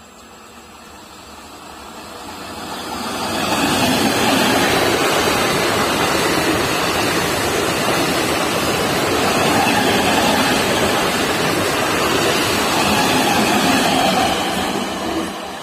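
MEMU electric multiple unit train running through at speed: the rush of its coaches and wheels on the rails builds over the first few seconds, holds loud and steady, then falls away near the end.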